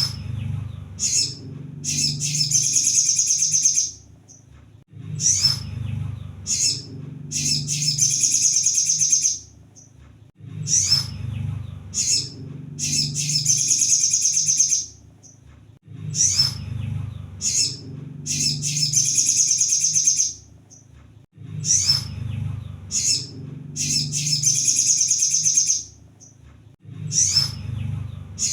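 Sunbird (kolibri sogon) singing a high, rapid, dense trilling phrase of about two seconds, each led by a few short chirps. The phrase repeats about every five and a half seconds, five times, as a looped training recording for cage birds.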